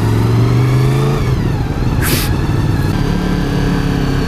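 A 1993 Honda VFR750's V4 engine pulls at low speed, its pitch rising slightly and then dropping back about a second in as the throttle eases. There is a short hiss about two seconds in.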